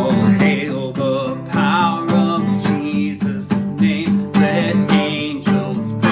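Acoustic guitar strummed in a steady rhythm, accompanying a voice singing a hymn.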